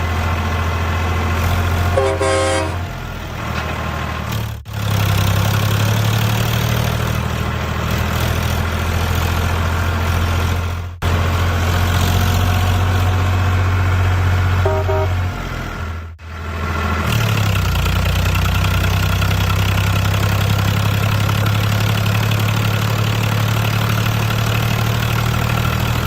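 A truck-like vehicle engine running steadily, with short horn toots about two seconds in and again around fifteen seconds, and abrupt breaks in the engine sound at a few points.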